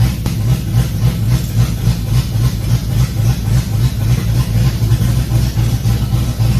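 Fox-body Ford Mustang V8 idling with a lumpy, choppy idle, its loudness rising and falling unevenly: the chop of an aggressive camshaft, which the owner thinks is an E303 cam.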